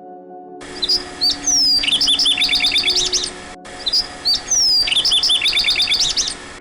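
A songbird singing the same song phrase twice, one right after the other: a short whistle and a slurred falling note, then a quick run of chirping notes.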